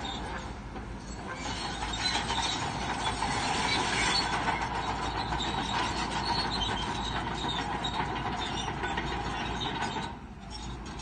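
Crawler bulldozer working, its engine running under the steady squeal and clatter of steel tracks. The sound eases briefly near the end.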